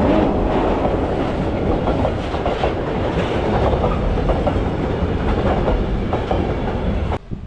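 Freight train wagons rolling past, their wheels clicking over the rail joints in a steady clatter. The sound cuts off suddenly near the end.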